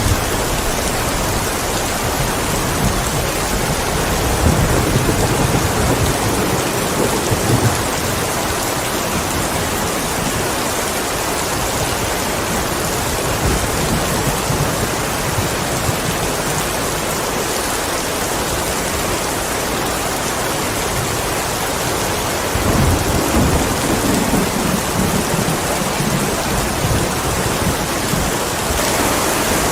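Steady rain falling, with low rumbles of thunder twice, about four seconds in and again about twenty-two seconds in.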